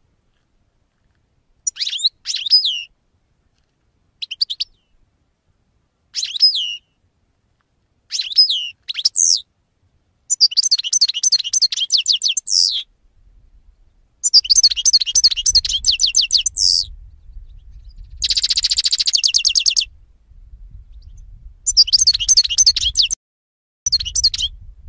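Pet songbirds singing. Short chirped phrases come with silent gaps between them at first, then longer runs of warbling song from about ten seconds in, with a fast buzzy trill later on.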